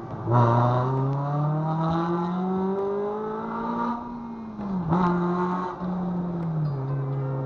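Honda Civic Si's K20Z3 four-cylinder, fitted with a bored RBC intake manifold, J35 throttle body, cold air intake and throttle body spacer, pulled hard under acceleration, heard from inside the car. The engine note jumps up at the start and climbs steadily for about four seconds, dips briefly at a shift near five seconds, then falls back to a lower steady note near the end.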